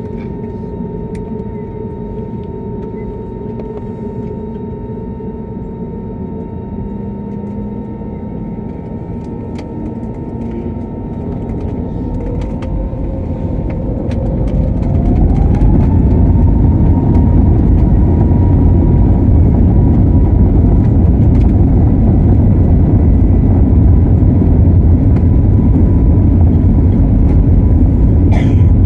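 Airliner's engines spooling up to takeoff power. A whine rises in pitch over a few seconds about halfway through, and the sound swells into a loud, steady roar as the takeoff run begins.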